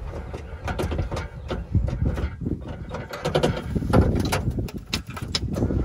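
Small open VW-pan-based 1969 Barris Mini T on the move: its engine runs under a low rumble, with many irregular rattles and knocks.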